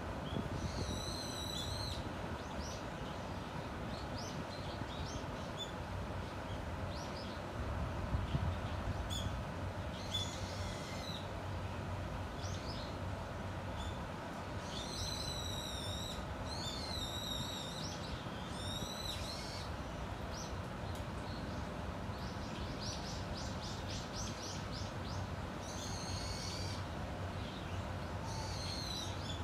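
Small birds calling among the trees: several series of harsh, high calls, with short chirps scattered between them, over a steady low background hum.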